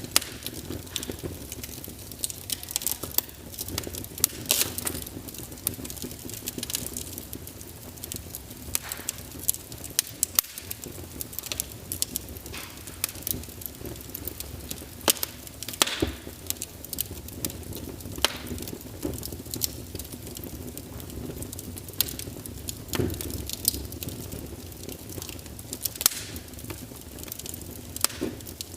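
Wood fire crackling: irregular sharp pops and snaps, several a second at times, over a steady low background of the burning fire.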